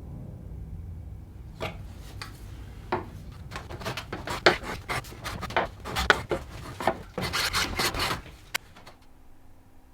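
Irregular scraping and rubbing strokes on wood, like a file or rasp being worked, coming in a quick run in the middle and stopping near the end.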